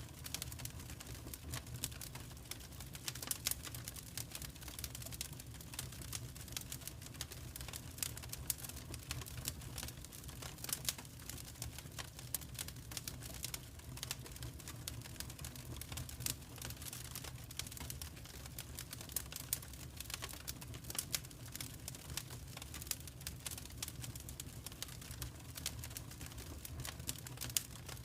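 Wood fire crackling: irregular sharp snaps and pops, some louder than others, over a low steady rumble of the flames.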